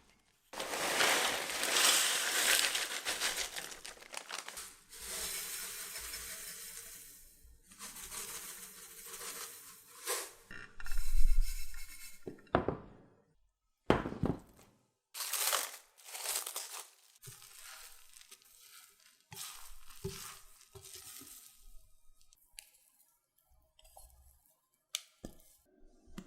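Hand food-preparation noises: long stretches of crinkling and tearing, then scattered scrapes and light knocks, with one heavier thump about eleven seconds in.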